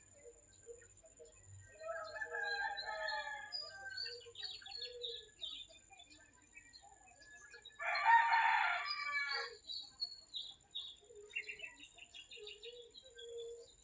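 Roosters crowing: a fainter crow about two seconds in and a louder, closer one about eight seconds in, with small birds chirping throughout.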